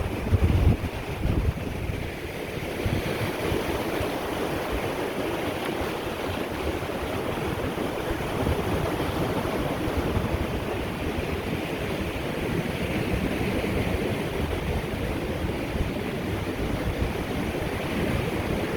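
Lake Erie waves washing steadily onto the beach, swelling and easing. Wind buffets the microphone in the first second or two.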